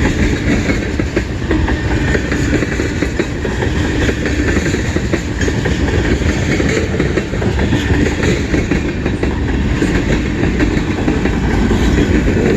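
Freight cars of a local mixed freight train rolling past close by, their wheels clacking over the rail joints with a steady rumble.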